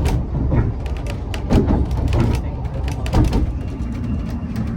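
Narrow-gauge railway carriage running along the line: a steady low rumble with frequent rattles and knocks from the wheels and coachwork.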